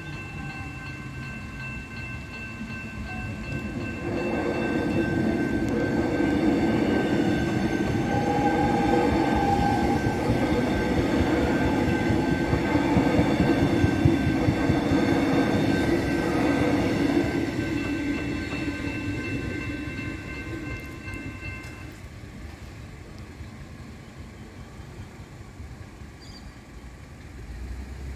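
X'Trapolis electric suburban train running over a level crossing: its wheel and running noise swells from about four seconds in, is loudest through the middle and fades away. Steady level-crossing warning bells ring over it and stop about three-quarters of the way through.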